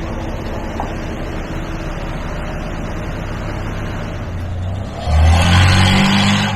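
Ford 4.9 L inline-six engine in an OBS F-150 idling steadily, then revved up, louder and rising in pitch, about five seconds in. The engine has just been serviced with new spark plugs and fresh oil.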